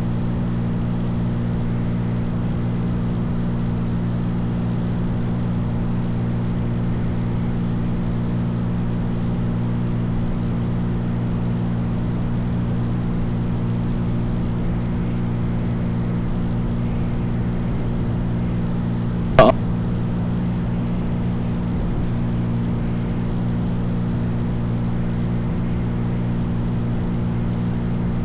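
Cessna 182's piston engine and propeller droning steadily at cruise, heard inside the cabin. One brief sharp click comes about two-thirds of the way through.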